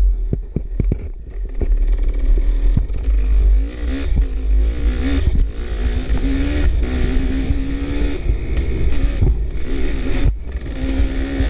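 Dirt bike engine running along a trail, its pitch rising and falling with the throttle. Wind rumbles on the microphone, and there are a few clattering knocks in the first couple of seconds.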